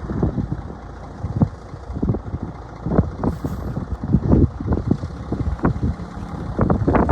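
Diesel engine of a 2007 Mack Granite dump truck idling steadily, under many irregular knocks and bumps.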